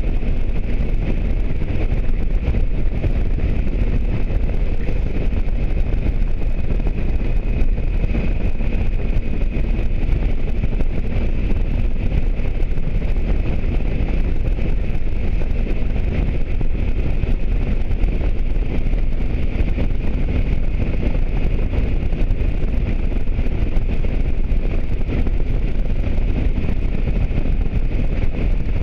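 Steady wind rushing over the microphone of a moving motorcycle, with the motorcycle's engine running evenly underneath.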